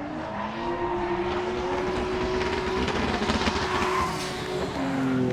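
Two drift cars in a tandem run, engines held at high revs with tyres sliding and squealing. The engine notes stay fairly steady, and the tyre hiss swells about three to four seconds in.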